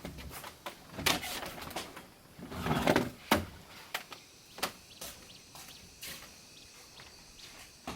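Irregular knocks and clicks, with a louder scraping rush about three seconds in, typical of wooden parts being handled.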